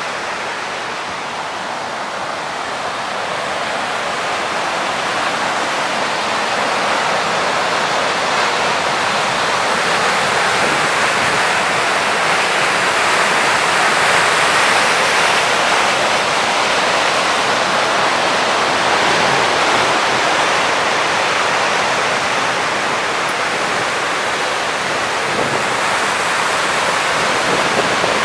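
Kivach waterfall on the Suna River: a steady rush of falling water, growing louder over the first dozen seconds and then holding.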